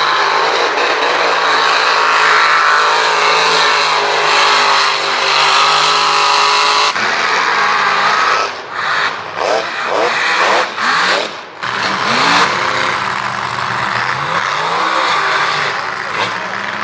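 Mega mud truck engine running hard at high revs. About halfway through it breaks into a series of quick revs rising and falling in pitch, with short drops in between, then settles back to a steady pull.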